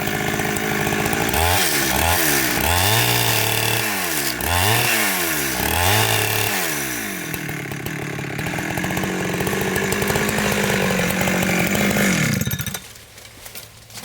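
Chainsaw running at high revs, its pitch dipping and recovering about five times, then holding steady before winding down about twelve and a half seconds in.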